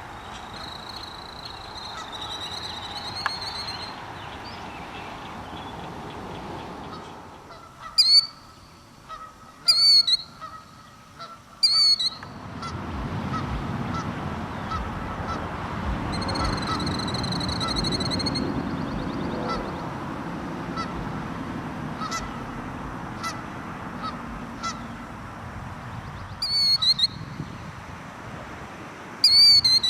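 Birds defending their territory, calling loudly: sharp, shrill high calls come in short bursts about eight, ten and twelve seconds in and again near the end, with longer strings of high calls near the start and in the middle. A low, steady rumble runs under the second half.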